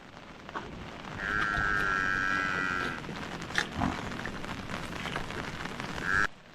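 An animal's wavering call lasting about two seconds, followed by a couple of sharp knocks and a brief second call just before the end.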